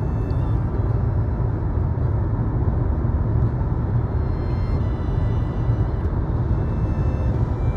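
Steady low road rumble of a car driving along, heard from inside the cabin.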